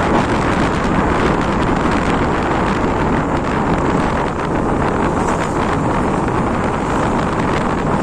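Wind rushing over the microphone while riding, a loud, steady noise without any clear engine tone.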